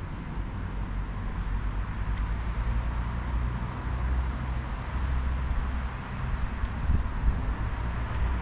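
Toyota Hilux Arctic Truck pickup on the move: a steady low engine and road rumble with a hiss of tyre and wind noise.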